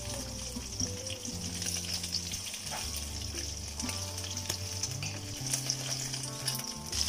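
Whole shell-on prawns sizzling as they fry in hot oil in a nonstick wok: a steady high hiss with scattered small pops.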